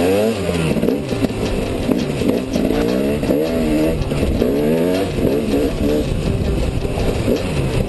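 Enduro dirt bike engine revving up and easing off again and again as it is ridden over sand.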